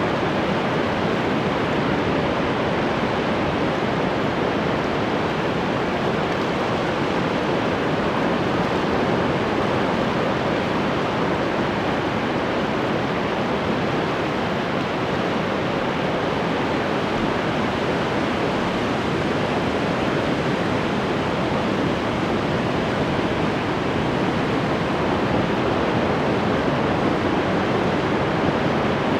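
Ocean surf washing continuously on the shore, a dense steady rush with no distinct breaking waves.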